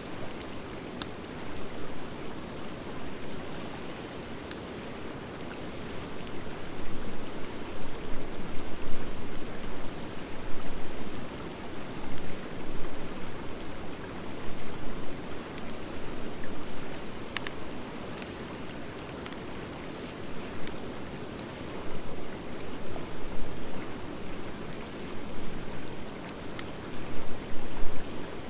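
Wood fire of driftwood and dry hardwood logs burning, a steady rush of flames that swells and eases, with scattered sharp crackles and pops from the burning wood.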